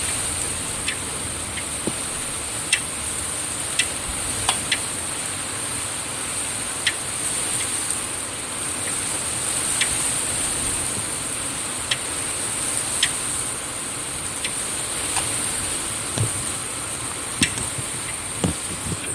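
Wind and rain storm through an open window: a steady rushing hiss, with a dozen or so sharp ticks scattered at irregular moments.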